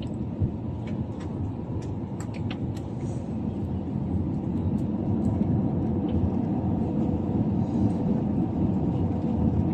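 Airliner cabin noise on the landing approach: a steady low rumble that grows louder about halfway through, with a few faint clicks.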